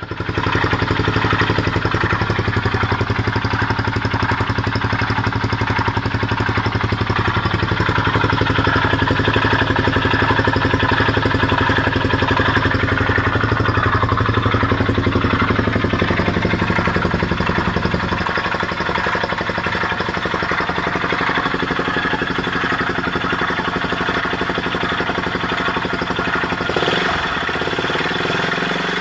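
Honda XL250S single-cylinder four-stroke engine running at a steady speed, with the pulsating grinding noise its owner is asking about. The engine note shifts slightly a few seconds in and gets a little quieter about two-thirds of the way through.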